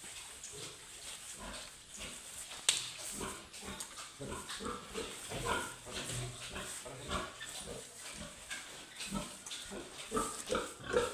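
Pigs grunting: many short, irregular grunts throughout, with one sharp click about three seconds in.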